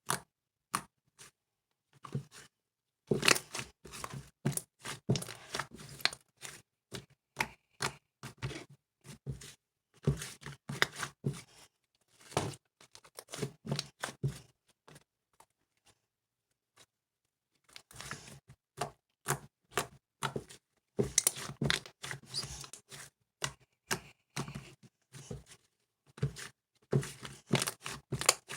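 Slime being squeezed, stretched and folded by hand, making dense runs of clicking and popping as trapped air pockets burst. The sound pauses for about two seconds near the middle, then starts again.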